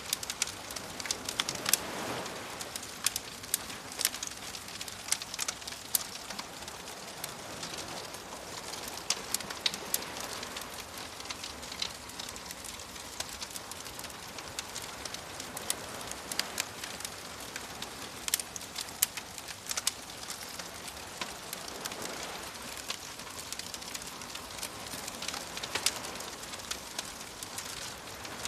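Bonfire crackling with frequent sharp pops, over a steady hiss of gentle waves that swells every several seconds.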